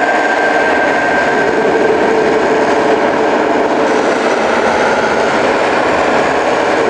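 Tractor engine sound effect running steadily: a loud, even engine noise with no change in pitch.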